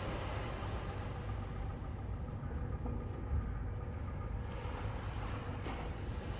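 A steady low rumble under an even wash of water and wind noise, with a faint steady hum.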